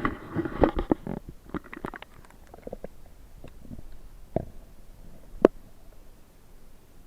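A series of irregular knocks and bumps, thick in the first second or so and then scattered, with one sharp knock about five and a half seconds in.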